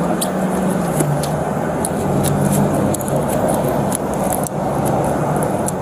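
A vehicle engine idling with a steady low hum, under clothing rustling and many small sharp clicks rubbing against a body-worn camera's microphone.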